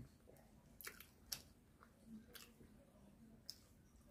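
Faint mouth sounds of a person chewing food, with a few soft, separate clicks.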